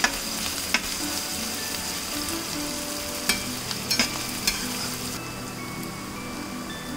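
Chopped onion and ginger-garlic paste sizzling in olive oil in a stainless steel pan on low heat, with a slotted metal spatula clacking against the pan a few times as it is stirred.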